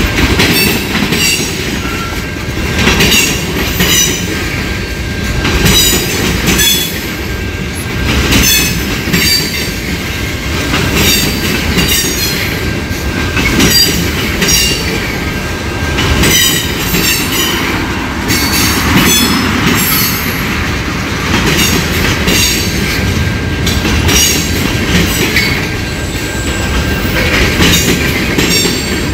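Train cars rolling by: the wheels clatter over the rail joints in a steady rhythm, swelling about every two seconds, with high wheel squeal now and then.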